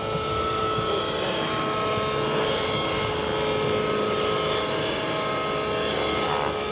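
Radio-controlled model helicopter flying, its rotor and motor making a steady whine with several held tones over a rushing noise.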